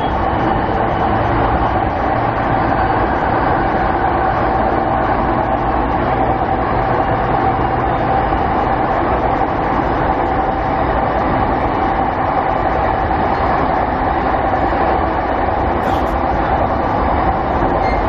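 Inside a JR 209 series 500 electric commuter train running at speed between stations: steady rolling rumble with a constant whine from the running gear, heard in the passenger car. A brief click near the end.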